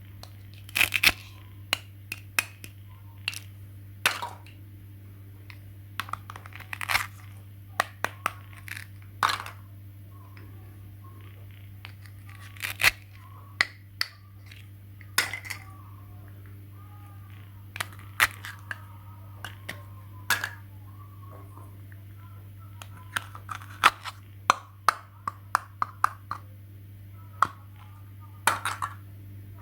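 Irregular sharp clicks and taps of small hard objects being handled, a few dozen over the stretch, over a steady electrical hum.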